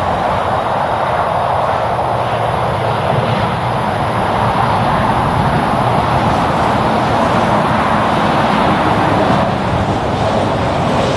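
Highway traffic passing at speed, mostly heavy trucks: a steady rush of engine and tyre noise that swells a little through the middle.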